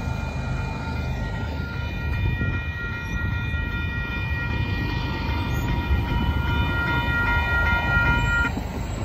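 Freight train rumbling on the rails, with a cluster of steady high-pitched tones over it that cut off suddenly near the end.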